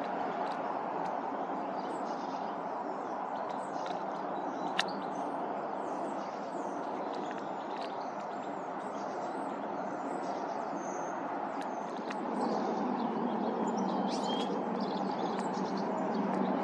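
Birds chirping and singing in many short high calls over a steady rumble of background noise, with one sharp click about five seconds in.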